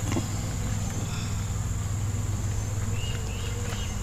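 Honeybees humming around an opened Warré hive, a steady low drone, which the beekeepers take for the bees starting to sound mad as the frames are worked. A steady high-pitched insect trill runs alongside, with short chirps near the start and the end.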